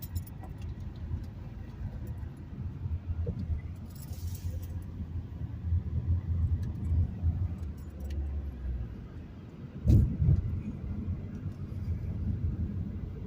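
Car driving, heard from inside the cabin: a steady low road and engine rumble with small clicks and rattles, and a heavy thump about ten seconds in.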